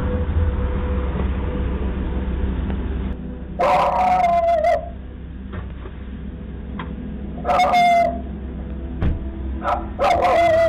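A dog whining three times, each a wavering high cry of about a second. A low steady rumble runs under the first three seconds, then fades.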